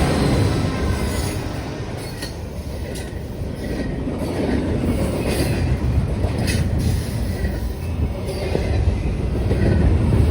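Norfolk Southern train rolling past: a steady low rumble of wheels on rail with scattered clicks and a faint wheel squeal here and there. It dips a little in loudness partway through and grows louder again near the end.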